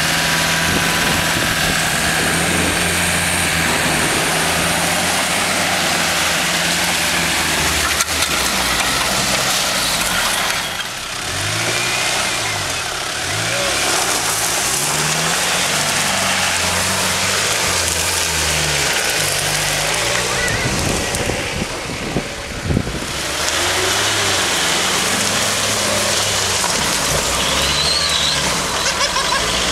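Off-road 4x4 SUV engines running under load, steady at first, then engine speed rising and falling repeatedly through the middle stretch. The level dips briefly twice, about eleven and twenty-two seconds in.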